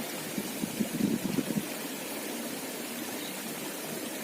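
Steady rush of running stream water, with a few short low knocks or handling sounds about a second in.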